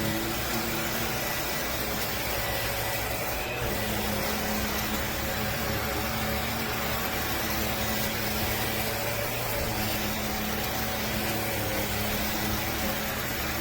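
Bissell PowerClean cordless stick vacuum motor running steadily, a constant hum with a faint held whine.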